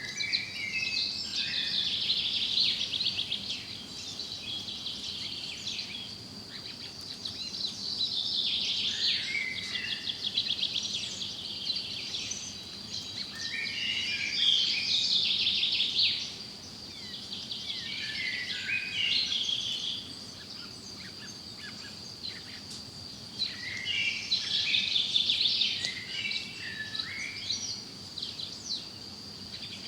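Songbirds singing in a forest: a trilled song phrase with falling notes comes about every five seconds. Under it runs a steady high-pitched buzz.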